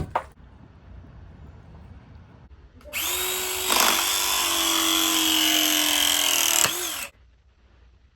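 Small electric power tool motor starting about three seconds in, getting louder a moment later, running steadily with a slightly sinking pitch and stopping after about four seconds.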